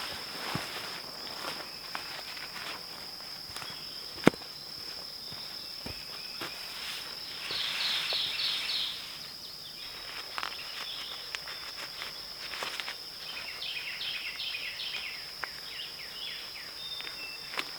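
Steady high-pitched insect drone, like crickets, with rustling, scattered clicks and footsteps from someone working on a tarp shelter, and one sharp knock about four seconds in.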